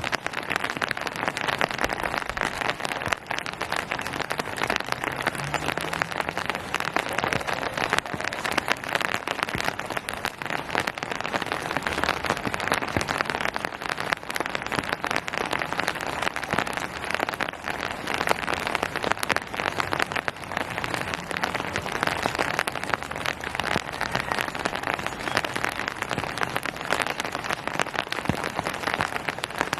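Steady rain falling and pattering on surfaces, a dense hiss of many small drops.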